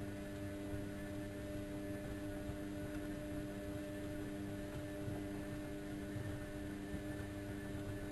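Bauknecht WA1400 Dolphin washing machine running with a steady, even-pitched hum.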